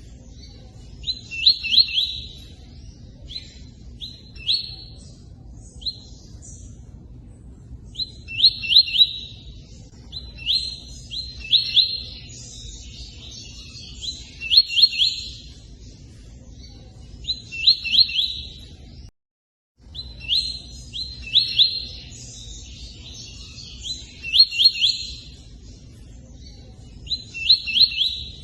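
A tui-tui songbird singing short, repeated phrases of three or four quick, high notes with pauses between them, over the steady rush of running water. The sound cuts out briefly about two-thirds of the way through.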